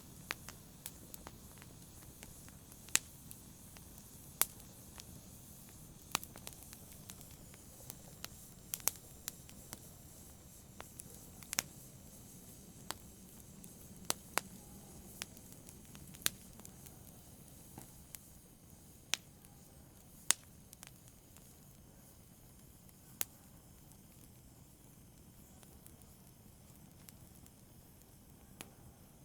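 Wood fire in a fireplace crackling: irregular sharp pops and snaps over a soft low rumble of burning. The pops thin out over the last few seconds.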